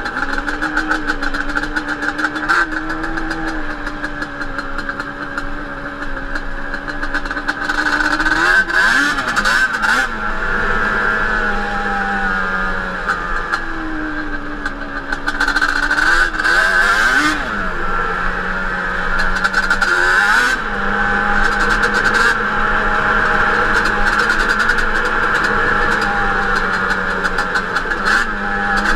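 Yamaha Banshee 350 twin-cylinder two-stroke ATV engine with Toomey T5 expansion-chamber exhaust, running under way with the throttle eased and opened. Its pitch holds steady for stretches and swings up and down in short revs several times.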